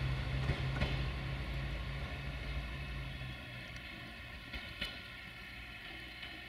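A diesel train running away into the distance, its low engine drone fading out over the first three or four seconds, with a few sharp clicks.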